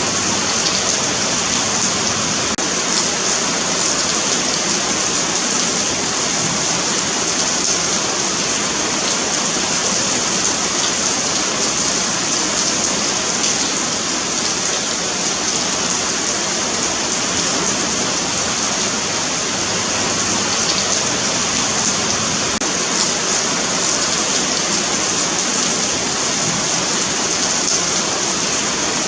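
Steady rain falling on a paved sidewalk, an even continuous patter and hiss.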